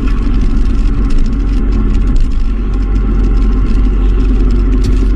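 Sport motorcycle engine running steadily at speed, heard from the bike's onboard camera with heavy low wind rumble on the microphone.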